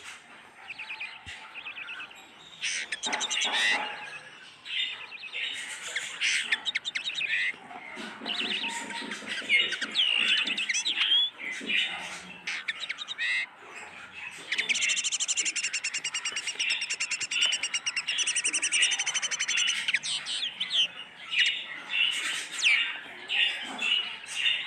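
Several caged pet birds chirping and twittering continuously, with a long, fast trill about halfway through.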